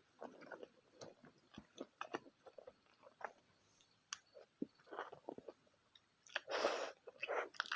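Close-miked eating: wet chewing and lip smacking with small irregular clicks, and one louder, longer noisy sound near the end.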